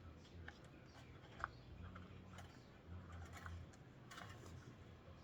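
Faint, scattered small clicks and taps of small parts and tools being handled at a workbench, with one sharper click about a second and a half in.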